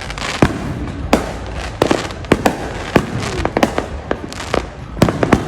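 Fireworks going off, a rapid irregular string of sharp bangs and pops over a steady rumble.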